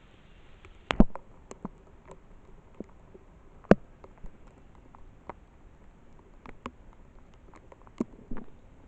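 Scattered, irregular sharp taps and clicks over a faint hiss, the loudest about a second in and near four seconds, with a few more near the end.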